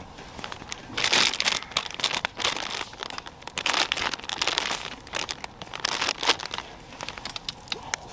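Crinkling and rustling of something being handled, in irregular bursts full of small sharp crackles, loudest about a second in and again between two and four seconds in, easing off near the end.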